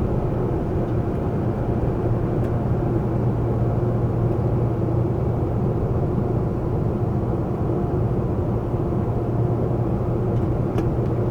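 Seoul subway train running: a steady rumble with a continuous low hum and fainter higher tones, holding an even level throughout.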